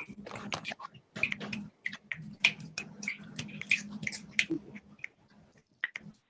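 Many people snapping their fingers out of step with one another, a scatter of irregular clicks imitating raindrops in a hand-made rainstorm, thinning out near the end.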